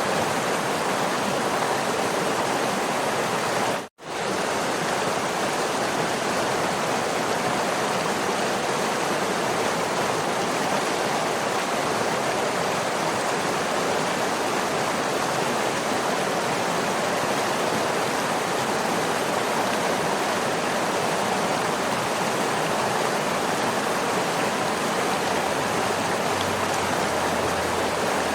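Waterfall: a steady rush of falling water, one even wash of sound. About four seconds in, it cuts out completely for a split second, then comes straight back.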